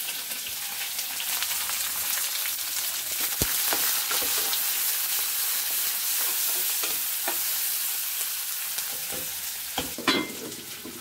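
Chopped onion and garlic sizzling in hot oil in a steel kadai for a tadka, stirred with a metal spoon, giving a steady frying hiss with small scrapes and clicks. About ten seconds in, a sharper metal knock is heard as the kadai's lid is set on.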